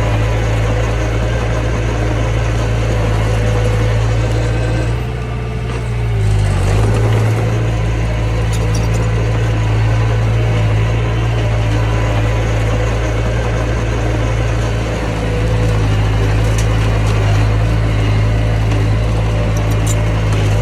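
Mini bulldozer's diesel engine running steadily under work, easing off briefly about five seconds in with a shift in pitch, and dipping again near fifteen seconds.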